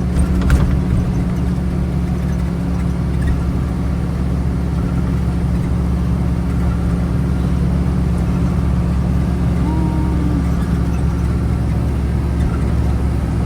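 The 5.9 Cummins diesel in a 1976 Dodge W600 Power Wagon tow truck runs steadily under load on a downhill pull. There is a single click about half a second in and a short squeak about ten seconds in.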